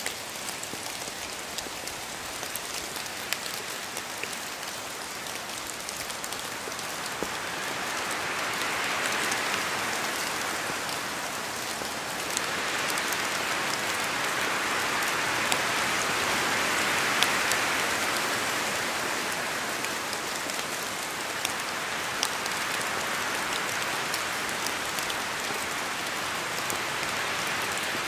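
Steady rain falling on a surface, an even hiss with scattered sharp drop ticks, swelling gently in intensity a few times.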